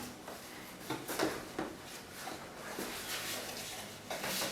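Cardboard from laminate boxes being handled and shifted: scattered short rustles and light taps.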